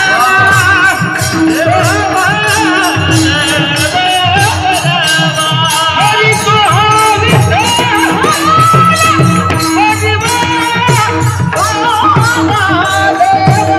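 Marathi devotional kirtan singing: male voices carry an ornamented, wavering melody over mridang drum strokes and a held drone. A sharp, jingling percussion beat keeps time at about four strokes a second.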